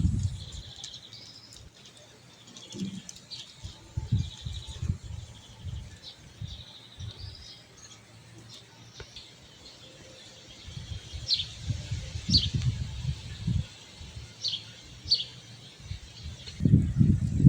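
Small birds chirping: short high trills and, in the second half, a few sharp falling notes. Wind gusts buffet the microphone in low rumbles, strongest in the second half.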